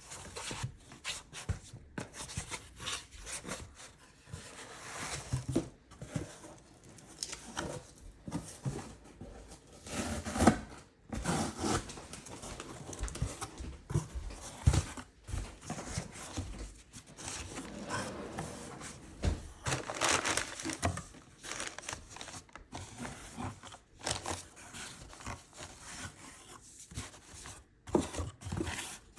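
Packing materials crinkling, crumpling and tearing in irregular handfuls as an order is packed by hand, with a few sharper knocks of items being set down.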